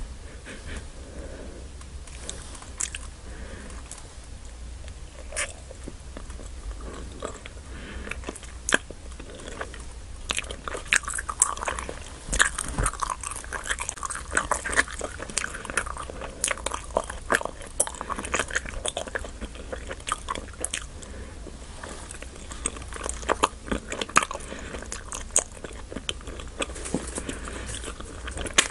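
Biting into and chewing an earth jelly, a ball-shaped gummy candy with a liquid filling, heard close up. Sharp mouth clicks come sparsely at first, then thick and fast from about ten seconds in.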